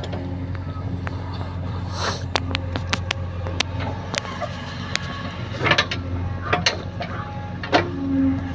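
JCB backhoe loader's diesel engine running steadily, with scattered knocks and clanks as it works loading soil.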